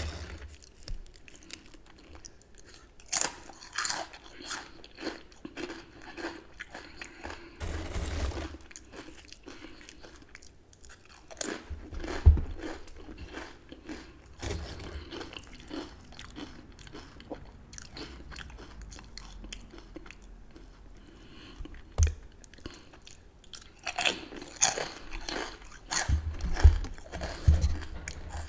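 Close-miked crunching and chewing of chips with dip: a few loud crunching bites, the heaviest cluster near the end, between stretches of softer, steady chewing.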